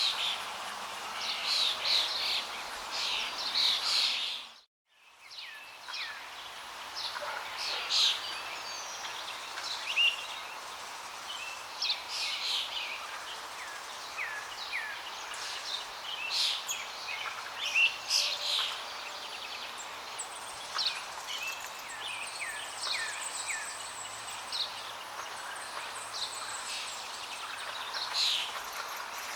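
Many birds chirping and singing in short calls and trills over the steady rush of flowing water. About five seconds in, everything cuts out for a moment and fades back in.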